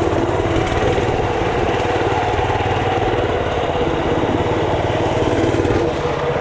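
Mini bike's small engine running steadily, with a brief dip in loudness near the end.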